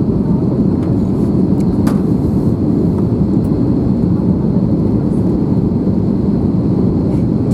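Airbus A321 in flight, its engine and airflow noise heard as a steady low rumble inside the passenger cabin.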